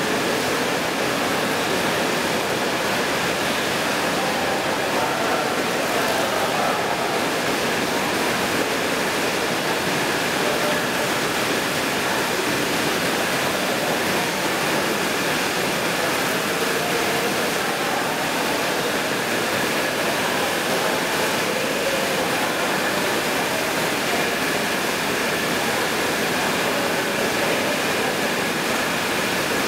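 Steady rushing of flowing or falling water, an even hiss that does not change.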